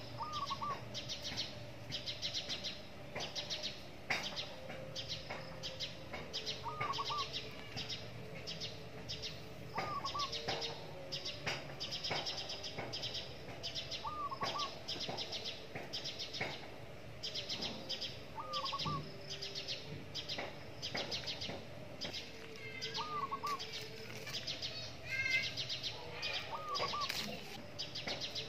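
Birds calling: bursts of rapid, high chirping, and a short hooked call repeated about every four seconds.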